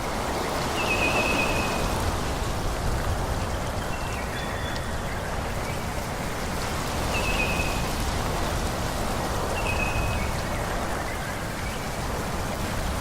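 Wind rushing through forest trees, swelling and easing in gusts, with short high bird chirps every few seconds.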